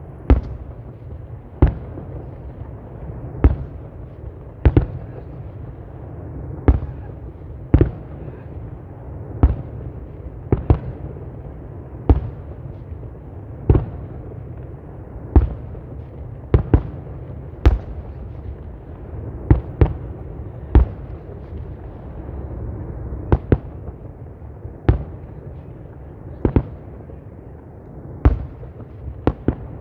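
Aerial fireworks bursting, one sharp bang every second or two, some in quick pairs, each with a short echo, over a steady low rumble.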